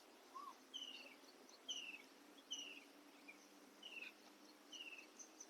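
A small bird calling faintly and repeatedly: short, high chirps falling in pitch, about one a second.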